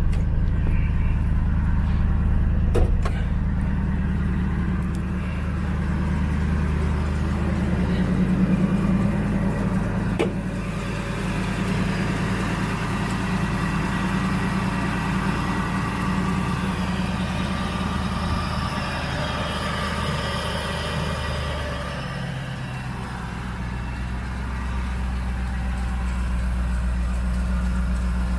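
1999 Ford Lightning's supercharged 5.4-litre V8 idling steadily just after a start, with a couple of brief clicks about 3 and 10 seconds in.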